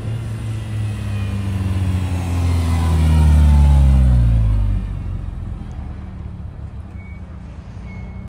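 Mk2 Renault Clio Renault Sport's four-cylinder engine and exhaust at low revs as the car drives slowly past. It grows louder to a peak about three and a half seconds in, then the engine note drops in pitch and fades.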